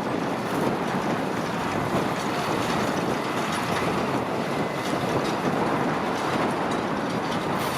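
Tractor and hay machinery working in a field: a steady engine sound mixed with the mechanical clatter of the implement it drives.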